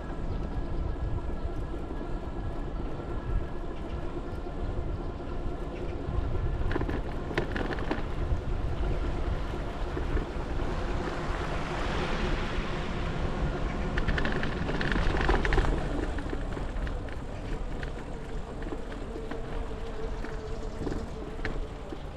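Wind buffeting the microphone over the rumble of a bicycle riding along a path. A louder rushing swell builds in the middle and fades a few seconds later.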